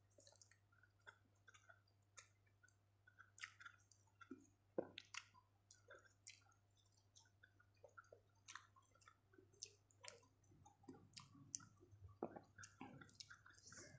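Faint close-up chewing of food, with wet mouth clicks and smacks scattered irregularly, over a steady low hum.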